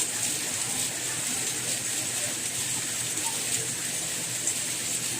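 Steady rain falling: an even, unbroken hiss that is brightest high up, with faint scattered drop ticks.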